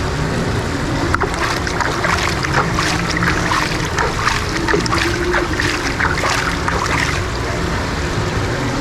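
Steady rush of water falling and splashing in a mall fountain, with scattered light clatter from about a second in until near the end.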